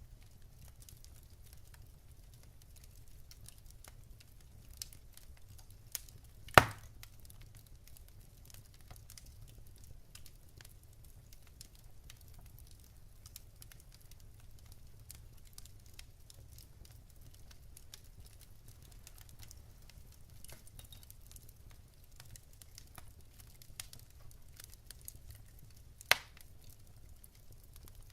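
Wood fire in a fireplace crackling, with small scattered clicks over a steady low rumble. Two sharp, loud pops stand out: one about six and a half seconds in and one near the end.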